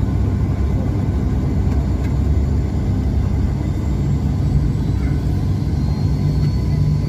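Airplane noise: a steady, even low rumble with no rise or fall in loudness.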